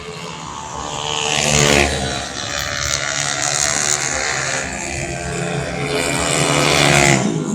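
Tuned 125cc automatic racing scooters running at full throttle, with two loud passes about two seconds in and near the end, each engine note rising to a peak and then falling away.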